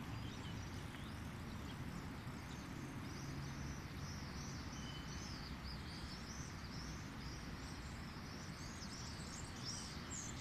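Birds chirping, many short high calls in quick succession that grow busier about three seconds in, over a steady low background noise.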